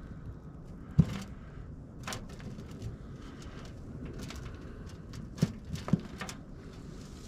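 Handling noises: one loud sharp knock about a second in, scattered scraping and rustling, then two quicker knocks about five and a half and six seconds in.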